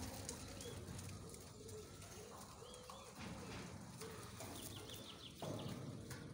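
Faint birds calling, with a quick run of short chirps about five seconds in, over a steady low background hum. Near the end a louder rustling noise comes in.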